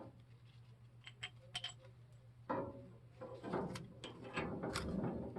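Black-iron gas pipe fittings being handled and threaded together by hand: light scattered metal clicks about a second in, then busier clicking and scraping from halfway on, over a steady low hum.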